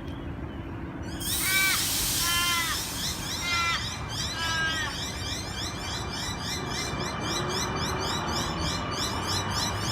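Birds calling at a railway station: a harsh call repeated four times, over constant high chirping from smaller birds. Underneath, a departing electric suburban train rumbles and hums, with a hiss starting about a second in and a slowly rising motor tone near the end.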